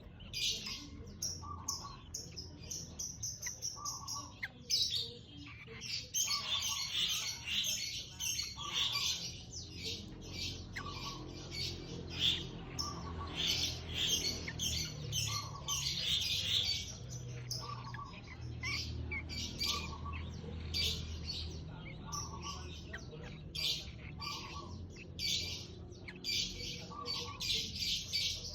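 Yellow-vented bulbul (cerucuk) chicks chirping in fast, high chattering runs, with a lower short call repeating about every second and a half.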